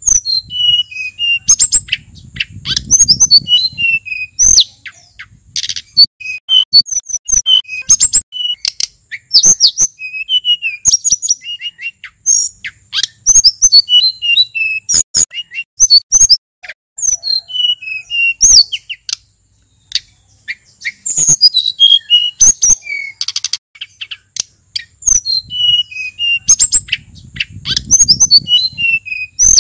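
Male sulingan gunung singing: a fast, varied run of short whistled notes and trills that swoop up and down, with only brief pauses between phrases. A low rumble comes in twice, about two seconds in and near the end.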